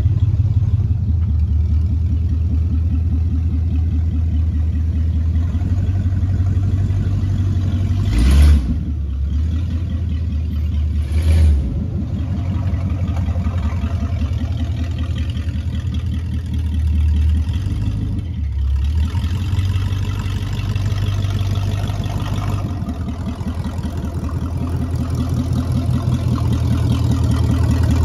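1978 Chevrolet Nova's engine running at low speed as the car is driven and manoeuvred, with two short louder bursts about a third of the way in. It grows louder toward the end as the car comes close.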